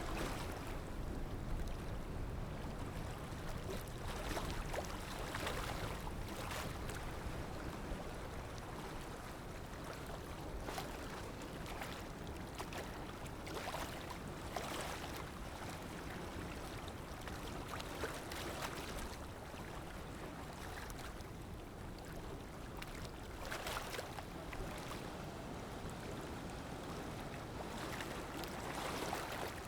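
Sea waves: a steady low rush of water with irregular splashes and washes every few seconds.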